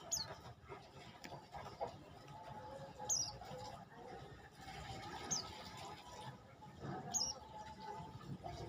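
Prenjak lumut calling: short, sharp, high chirps that drop in pitch, repeated about every two seconds, four in all.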